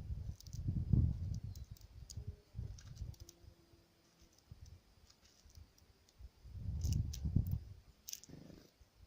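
Birds pecking at food on a feeder: bursts of rapid tapping, the longest near the start and another a little after the middle, with sharp single clicks between.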